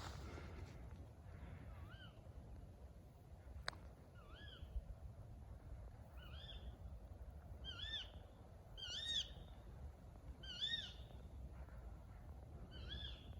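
Tawny owl giving a series of about seven short, sharp calls, each a quick rising-then-falling note, one to two seconds apart. There is a single sharp click about four seconds in, over a faint low rumble.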